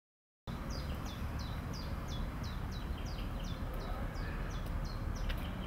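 Outdoor ambience: a small bird repeats a short falling call about three times a second over a steady low rumble.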